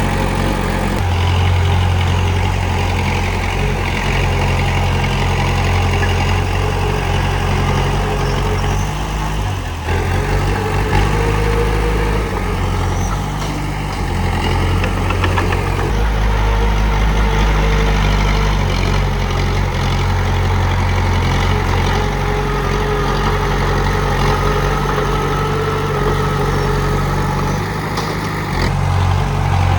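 Bulldozer's diesel engine running steadily with a low hum. Its note shifts a few times as the load changes, with a faint whine above it that comes and goes.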